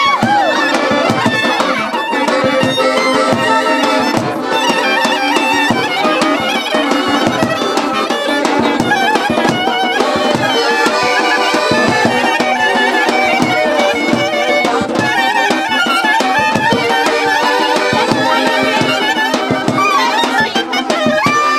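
Instrumental traditional folk dance music: a busy, ornamented wind-instrument melody over a steady beat, loud and continuous.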